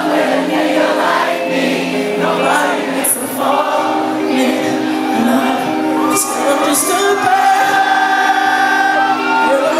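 Live R&B concert music: a male lead vocal singing sustained, gliding lines over a band with held synth tones, recorded from the audience in a club.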